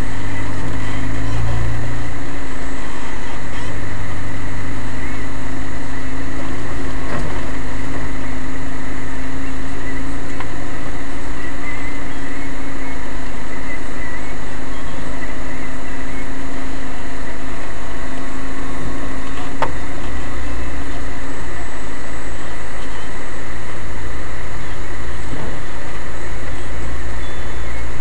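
Off-road 4x4's engine running steadily at low revs as it crawls along a rough woodland track, with a single sharp knock about two-thirds of the way through.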